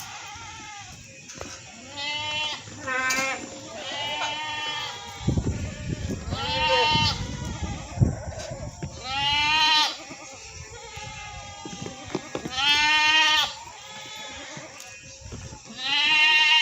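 Goats bleating: a series of about seven calls, several held for about a second and some higher-pitched than others. A low rumbling noise runs under the calls midway through.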